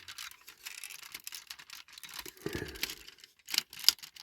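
Small plastic parts of a 1/18 scale diecast model car being worked loose by hand: light scratching and scraping with scattered small clicks, and a few sharper clicks a little before the end.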